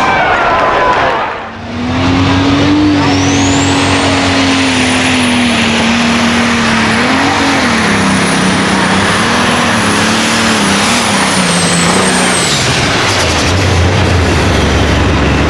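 Competition pulling tractor's engine running flat out under load, with a high whine that rises and then holds; the engine note sags slowly and wavers as it pulls. Engine and whine cut off about twelve and a half seconds in.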